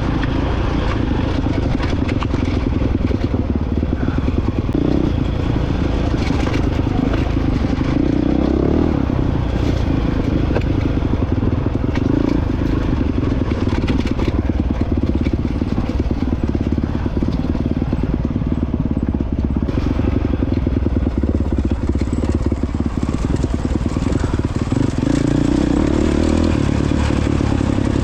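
2022 Honda CRF450X's single-cylinder four-stroke engine running steadily while the dirt bike is ridden off-road, with frequent small clicks and clatters over it.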